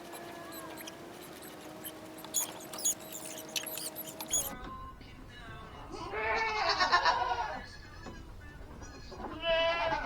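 Sustained background music for the first few seconds, then after a cut a goat bleats loudly twice: one long call in the middle and a shorter one near the end.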